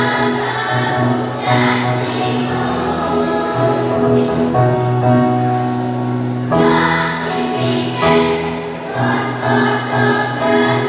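Elementary-school children's choir singing in parts, holding sustained chords that change every second or two.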